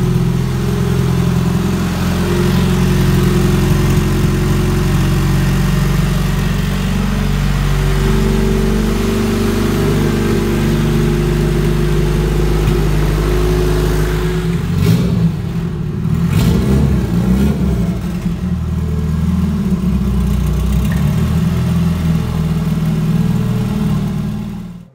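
1995 Honda Civic's turbocharged VTEC four-cylinder engine running just after start-up, a steady idle at first. About two-thirds of the way in the sound changes, with a few short blips, and it cuts off suddenly at the end.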